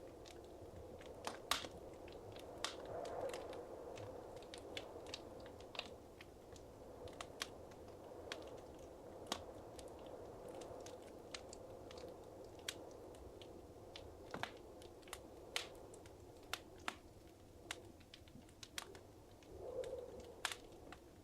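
Wood fire in a fireplace crackling softly, with irregular sharp pops and snaps over a low, steady hiss.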